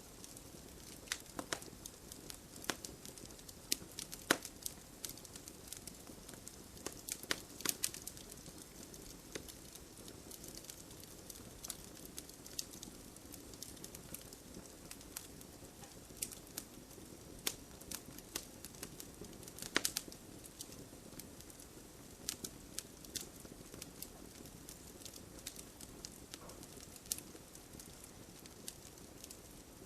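Campfire burning, with a steady soft hiss under irregular sharp crackles and pops from the burning wood; a few louder pops stand out, the loudest about 20 seconds in.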